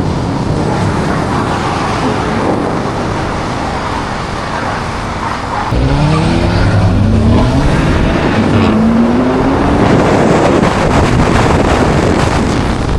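A car doing a burnout: engine revving hard while the tyres spin and squeal. It gets louder from about six seconds in, the engine pitch climbing in repeated rising sweeps.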